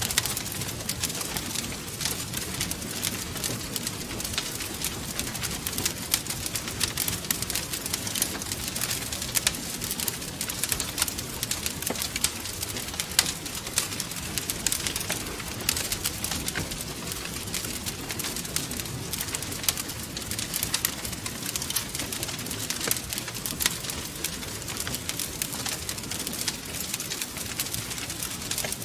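Wood fire crackling steadily, with many small sharp pops and snaps over a low rumble of burning.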